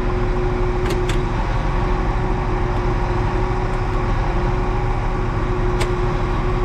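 Tractor engine running steadily with a constant whine, and a few sharp clicks: two close together about a second in and one more later.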